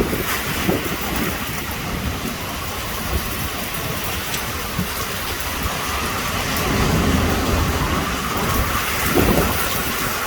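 Extremely heavy rain pouring in a severe thunderstorm, with strong wind, as a loud, steady, dense hiss. Low rumbling swells rise about two-thirds of the way through and again near the end.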